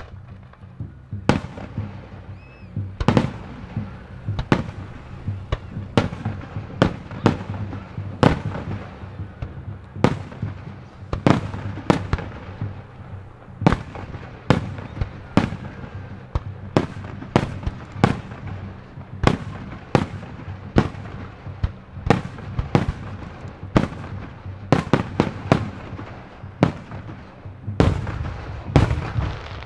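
Aerial firework shells bursting overhead, a rapid series of sharp bangs about one a second, some in quick clusters, each trailing off in an echo.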